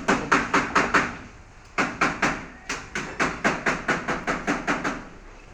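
Hammer blows struck in quick succession, about four a second, in three runs separated by short pauses.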